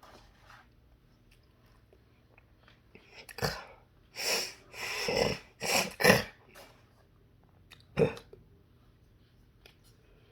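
A run of short vocal sounds, bunched together about three to six seconds in, with one more about eight seconds in.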